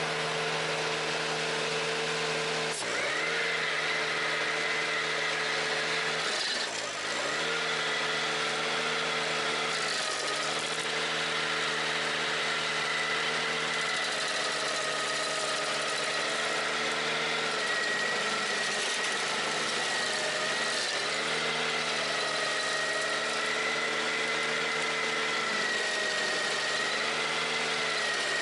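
Ventrac 4520Z compact tractor's engine running steadily at high speed driving a stump grinder attachment. Its pitch dips briefly and recovers about three seconds in, again about seven seconds in, and a few more times later, as the engine takes load.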